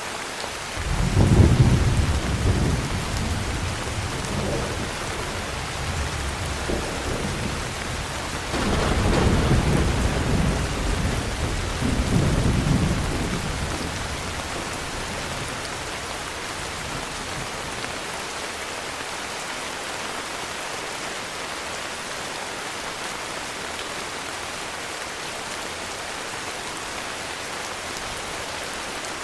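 Steady heavy rain with a long rolling thunder rumble. The thunder comes in sharply about a second in, swells twice more around the middle, and dies away, leaving only the rain.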